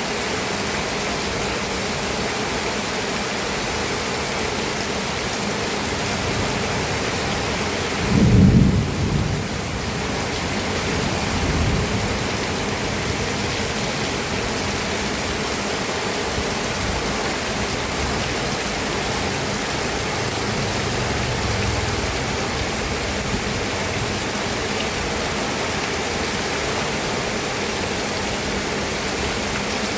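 Steady rain falling, with a low rumble of thunder about eight seconds in and fainter, shorter rumbles a few seconds later and again past the middle.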